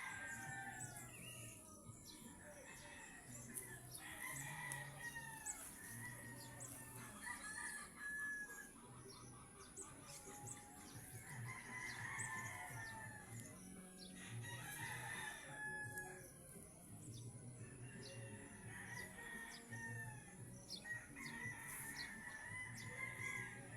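Roosters crowing again and again, the long arching calls overlapping one another, with hens clucking between them.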